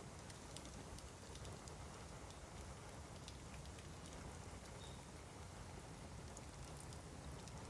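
Bamboo burning in an open fire, crackling faintly: scattered small sharp pops over a steady low hiss.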